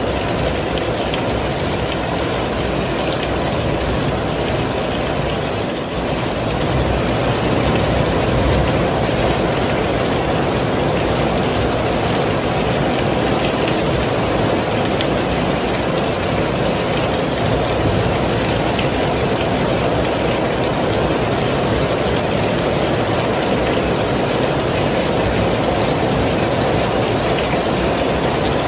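Heavy rain falling as a dense, steady hiss and patter at an even level.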